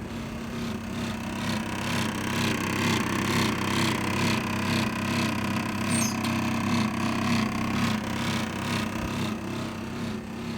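Small cell-tower cooling unit running with a steady mechanical hum and an even, rhythmic clatter of about two beats a second. The unit is faulty.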